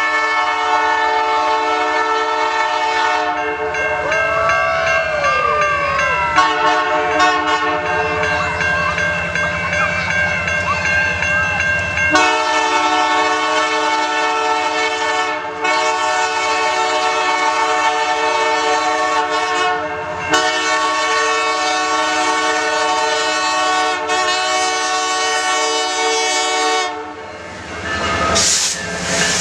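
Freight locomotive's multi-chime air horn sounding a long series of held blasts with a few short breaks, then stopping about 27 seconds in. Under it is the rumble of the locomotive and the clatter of train wheels on the rails.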